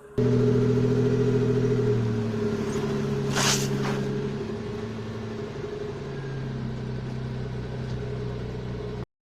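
Car engine running steadily, cutting in abruptly and easing off slightly after about two seconds, with a brief sharp noise about three and a half seconds in.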